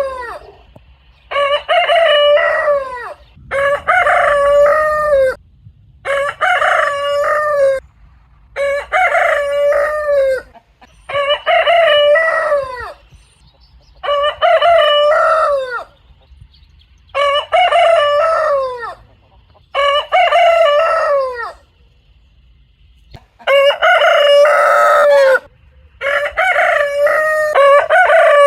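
Rooster crowing again and again, about eleven loud cock-a-doodle-doo crows, each one to two seconds long with a falling tail, one every two to two and a half seconds, with a longer pause a little past the middle.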